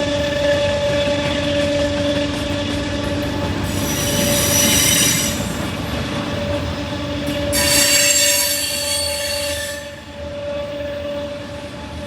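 CSX freight train climbing a grade, with a steady whine running throughout and two bursts of high-pitched wheel squeal, about four and eight seconds in, each lasting one to two seconds.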